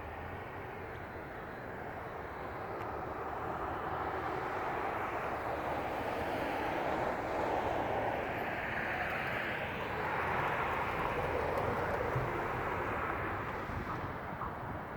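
Road traffic: passing vehicles' tyre and engine noise, swelling over several seconds and easing off near the end.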